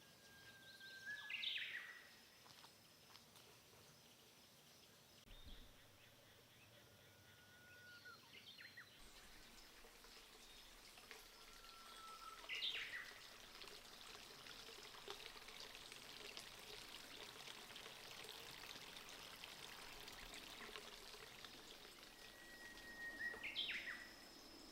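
A bird singing: a held whistled note followed by a quick rising-and-falling flourish, four times, roughly every five to ten seconds. Under it runs the faint steady hiss of a small forest stream.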